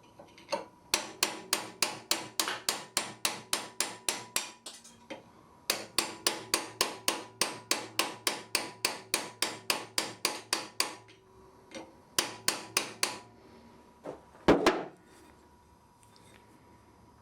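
Blacksmith's hammer striking on an anvil in fast, even runs of about four to five blows a second, with short pauses between the runs, then one heavier knock near the end.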